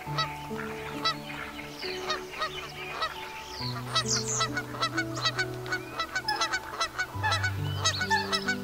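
Geese honking and cackling in quick, overlapping calls, several a second, over soft background music with long held notes.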